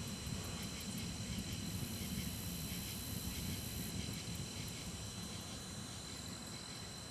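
Crickets chirping steadily over a low rumble of distant thunder that slowly fades away.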